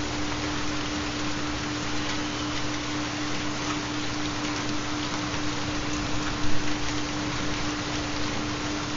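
Steady recorded rain with a constant low hum tone underneath, the carrier of a theta binaural beat. A couple of brief louder spatters come about six and a half seconds in.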